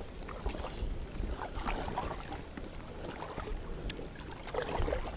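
Kayak paddle strokes splashing in river water, in patches about every one and a half seconds, over a low wind rumble on the microphone. One sharp tick near the end.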